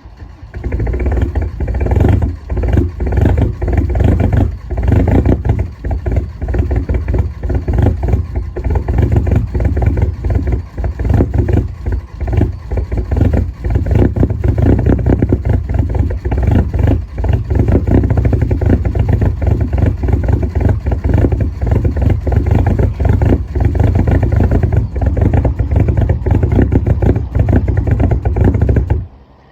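Straight-piped 1.9 L ALH TDI four-cylinder turbodiesel of a 2003 VW Jetta running loud and rough just after a cold start in extreme cold, with a rapid diesel clatter through the open exhaust. The level dips briefly a few times early on, then it runs more evenly and cuts off abruptly near the end.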